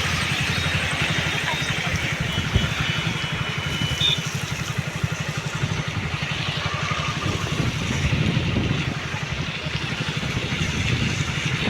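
A small engine running steadily, its low even pulsing under a steady hiss.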